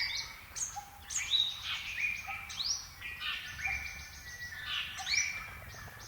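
Several birds chirping, with short, sharply rising calls repeated throughout.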